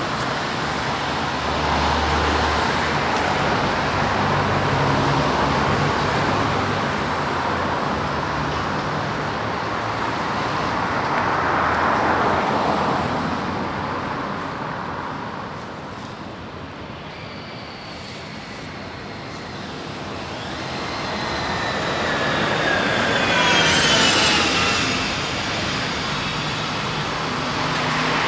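Road traffic: vehicles passing one after another, the sound swelling and fading with each. The loudest one goes by near the end with a falling whine.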